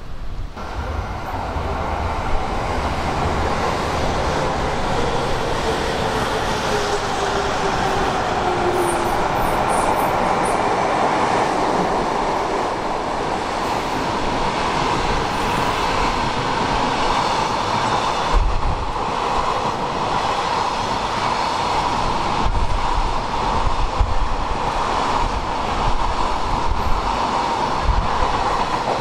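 Freight train running past steadily, its wheels clicking over the rail joints, with a few low thumps in the second half.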